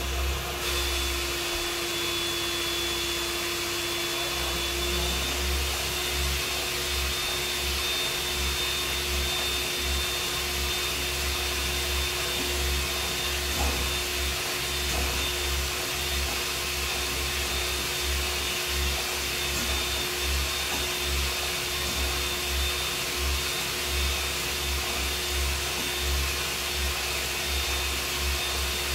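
A motor-driven machine with rushing air runs steadily, with a constant whine, switched on just before. Its pitch steps up slightly about five seconds in.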